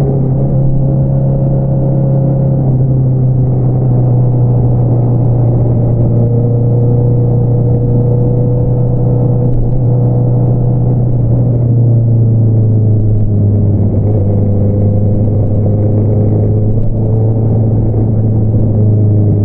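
2022 Honda CBR650R inline-four engine running through an Akrapovič single-outlet exhaust: a steady low drone that drops a little in pitch about halfway through as the revs ease off.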